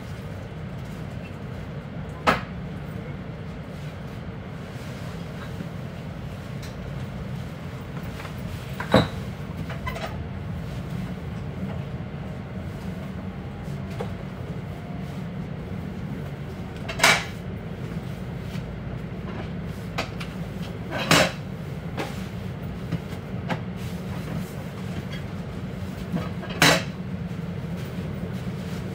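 Regional train heard from inside a carriage while running slowly: a steady low rumble, broken by half a dozen sharp knocks at uneven intervals.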